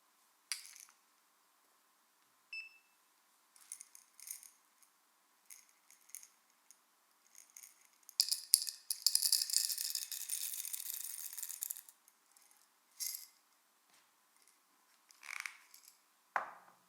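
Loose coffee beans clicking and rattling against a hard container: scattered clicks, then a dense run of rattling from about eight to twelve seconds in, as of beans being poured or shaken.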